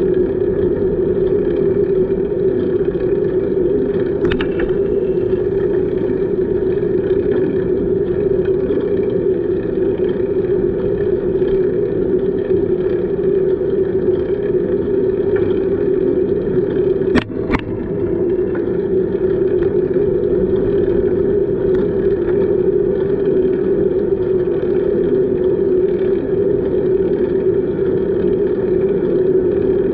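Steady wind and tyre noise of a moving bicycle on the microphone, a constant droning rush with no pauses. There is a brief double knock about 17 seconds in.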